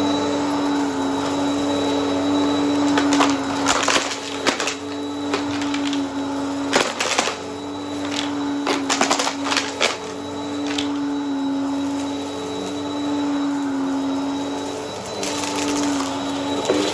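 Vacuum cleaner running with a steady motor hum while sucking up crunchy debris, which crackles and rattles through the brush roll and hose in several bursts: a few seconds in, around the middle, and again near the end.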